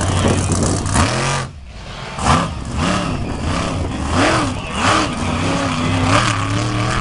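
Monster truck engine revving hard, its pitch swinging up and down in a series of rev bursts, with a brief drop in power about a second and a half in.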